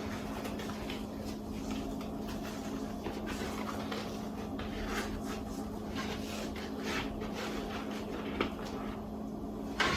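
Handling noise of a cloth wash bag being slipped over a plastic hat-washer cage: soft scattered rustles and light plastic clicks, with a sharper click shortly before the end. A steady low hum runs underneath.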